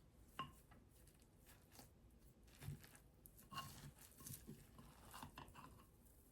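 Faint handling sounds: scattered light clicks and taps, with two small ringing clinks about half a second in and again after three and a half seconds.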